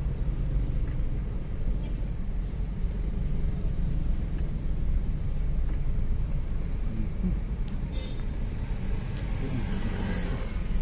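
Steady low rumble of a vehicle on the move, with a brief rise of hiss near the end.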